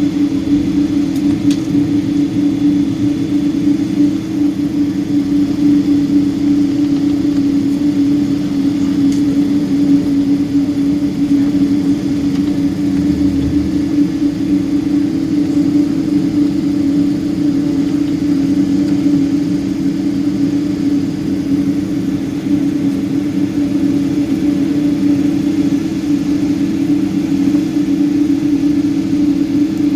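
Boeing 777-200 jet engines heard inside the passenger cabin: a steady drone with a strong low hum over an even rushing noise, holding the same pitch without spooling up or down.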